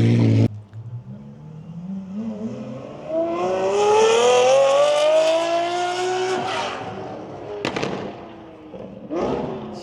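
A sports car's engine accelerating hard, its note climbing steadily in pitch for several seconds before the driver lifts off, followed by a few sharp exhaust cracks.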